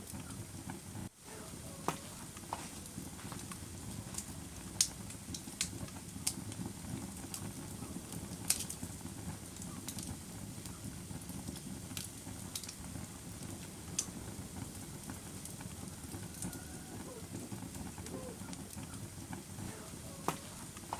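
Wood fire crackling, with a steady low rumble and sharp pops scattered throughout. The sound briefly cuts out about a second in.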